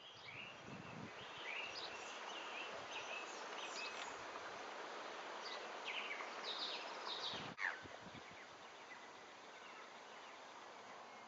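Outdoor ambience: a steady background hiss with many short bird chirps scattered through it, and a single sharp click about seven and a half seconds in.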